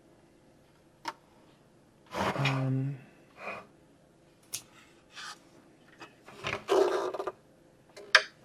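Clicks and rustles from the plastic parts of a bird feeder kit being handled and fitted together. A short hummed 'hmm' comes about two seconds in.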